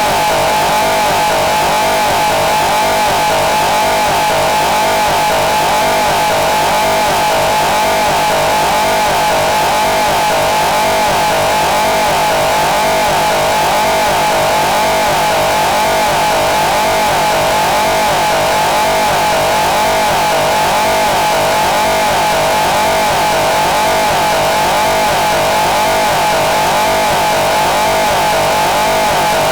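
Harsh experimental noise music: a loud, unbroken wall of distorted noise with a steady droning band in the mid range and a fine wavering texture, unchanging throughout.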